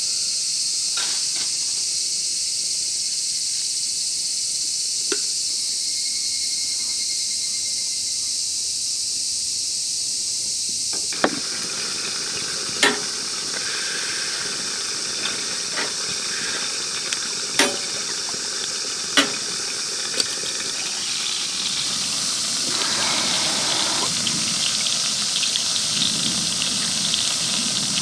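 A steady high hiss of insects for about the first ten seconds, then the sizzle of chicken frying in a sandwich-maker pan over a wood fire, with a few sharp clicks. The sizzle grows fuller near the end as sauce is poured onto the hot meat.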